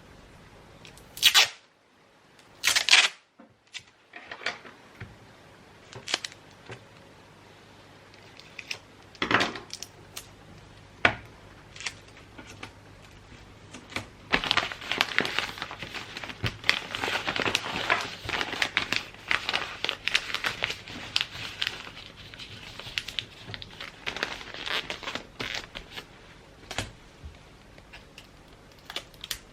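Gift wrapping paper being handled: two loud tearing sounds near the start, scattered taps and rustles, then a long stretch of steady paper crinkling through the middle.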